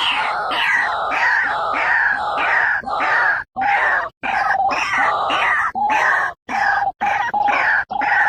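White-breasted waterhen calling: loud, harsh croaking notes repeated about twice a second, broken by a few brief abrupt silences.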